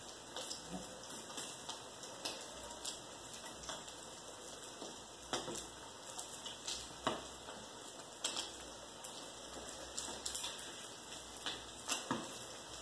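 Omelette frying in a pan over a gas burner: a soft steady sizzle with scattered crackles and a few sharper clicks.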